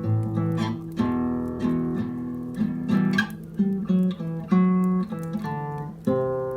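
Spanish classical nylon-string guitar (an Almirés) playing a slow picked passage, a guitar interlude of fifths and melody notes, each note or chord plucked about once or twice a second and left ringing.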